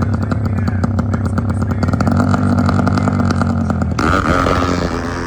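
Motorcycle engine running loudly close by, its rapid firing pulses clearly heard; the sound changes abruptly about four seconds in.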